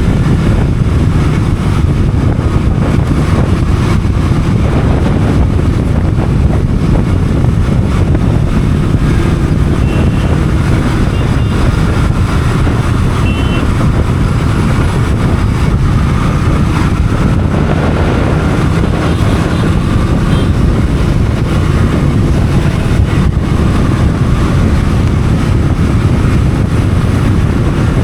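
Wind buffeting the microphone of a moving motorcycle, with the bike's engine running underneath: a loud, steady, low rumble.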